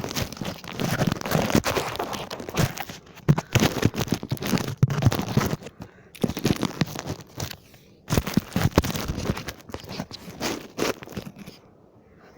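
Rustling and crunching close to the microphone, in bursts a second or two long, as the camera is handled and set down.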